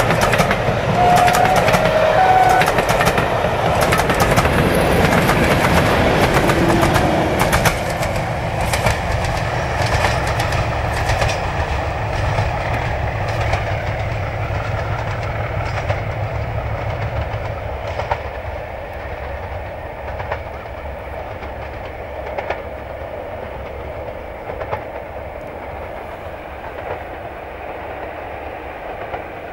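Diesel-hauled train of passenger coaches passing close by, wheels clicking rapidly over the rail joints, then fading as it draws away.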